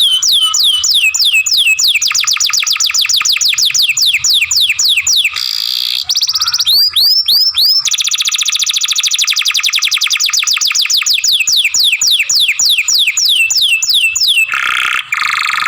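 Canary singing a long song: series of high whistled notes, each sliding downward, about four a second, alternating with fast rolling trills, and a short harsh buzzy phrase near the end.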